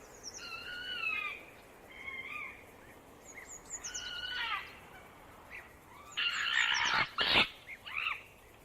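Fox calling: a string of short, high whining cries that bend up and down in pitch, with a harsher, raspy call about six seconds in.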